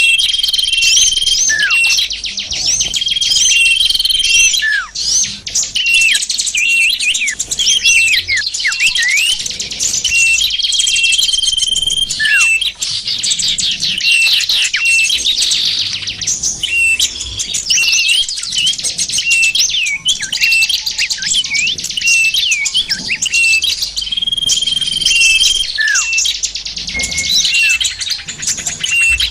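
Bird-lure (pikat) recording of many small songbirds calling over one another: a dense, unbroken chatter of high chirps and twitters, with a short held whistle that comes back every few seconds and an occasional falling call.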